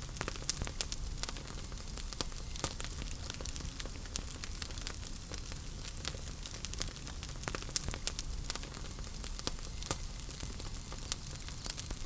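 Wood fire crackling in a fireplace: many sharp pops and snaps at irregular intervals over a soft steady rumble and hiss of the flames.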